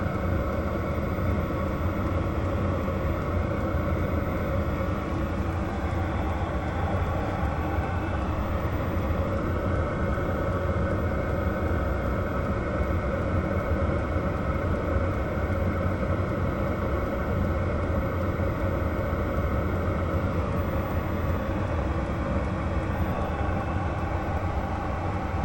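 Chinese 12 V diesel air heater running steadily on setting 2: a continuous low drone from its fan and burner that holds at one level throughout.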